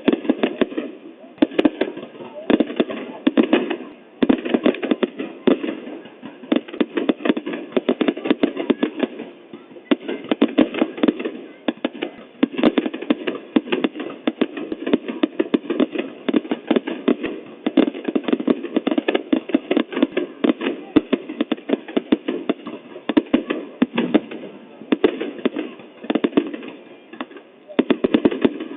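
New Year fireworks going off in rapid, near-continuous bangs and crackles, with a few brief lulls.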